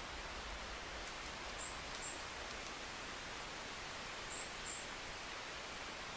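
Forest ambience: a steady hiss with a small bird's very high, short chirps, heard in pairs twice, and a few faint clicks about two seconds in.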